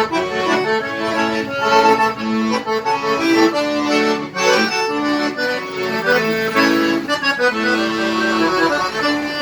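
Accordion played, a melody of held reed notes changing in quick succession over chords, as a test of the instrument after its damaged button mechanism was repaired.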